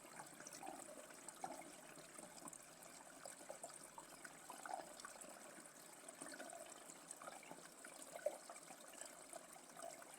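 Faint trickling water from a small waterfall, a soft steady wash dotted with little irregular gurgles and splashes, over a thin, steady high tone.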